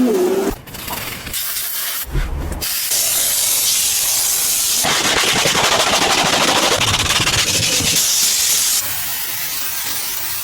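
High-pressure car-wash spray hissing, in a run of short clips that cut in and out abruptly. It is loudest and brightest from about five to nine seconds in.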